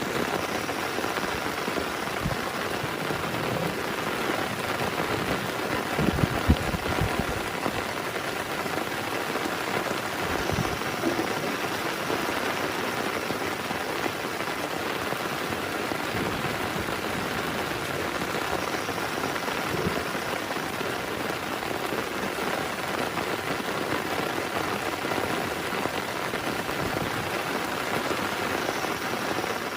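Heavy rain falling steadily, with a few louder low thuds about six seconds in and another near ten seconds.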